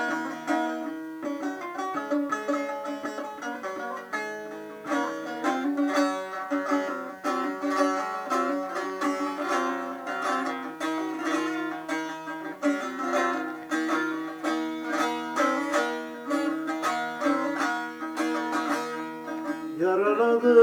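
Instrumental introduction to a Turkish folk song on a plucked string instrument: a quick run of sharply picked notes over low held notes.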